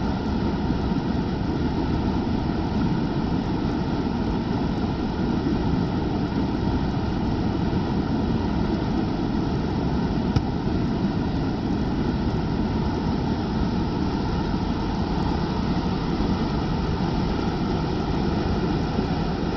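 Waterfall roaring steadily, a constant deep rush of falling water, with one brief click about ten seconds in.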